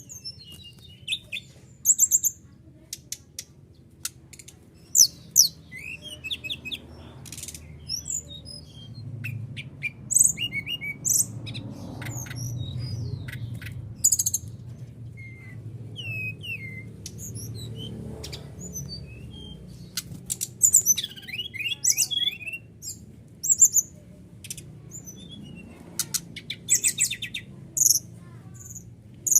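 Small birds calling: many short high chirps and quick trills coming every second or so, played to make a pet bird answer. A low steady hum runs underneath.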